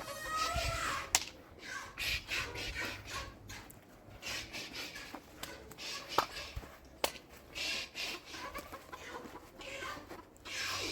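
Chickens clucking, with scattered rustling and a few sharp knocks.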